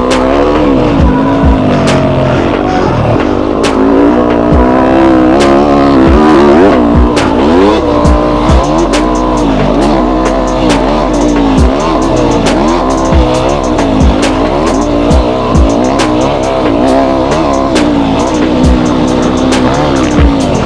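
Yamaha YZ250F dirt bike's four-stroke single-cylinder engine under hard riding, revving up and falling back again and again about every second, with many short sharp clicks and knocks.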